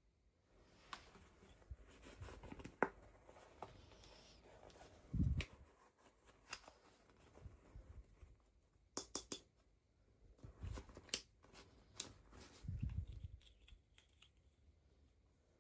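Hands unboxing toy packaging: scattered clicks, taps and crinkles of plastic and cardboard being opened and handled, with two louder low thumps, one about five seconds in and one near thirteen seconds.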